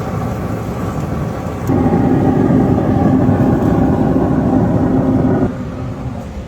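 A steady motor-like hum that gets markedly louder about two seconds in and drops back about a second before the end.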